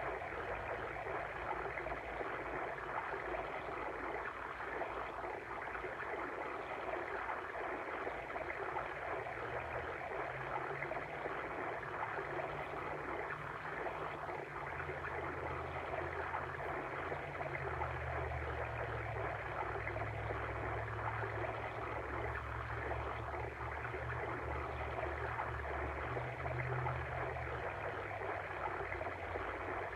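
Steady rushing and babbling of a flowing water stream, with a low rumble coming and going beneath it from about ten seconds in.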